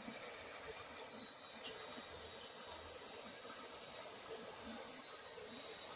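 Insects, cricket-like, giving a loud, steady, high-pitched buzzing call. It cuts out just after the start, resumes about a second in, and pauses briefly again a little after four seconds.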